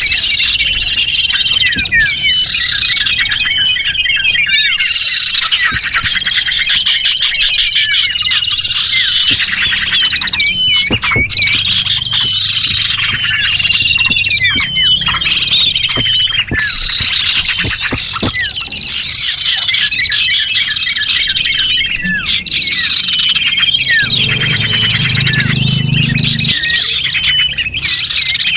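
Small birds chirping and trilling without pause: a dense chorus of high, quick calls, short whistled notes and rapid trills, the kind of lure recording (pikat) played to draw small birds in.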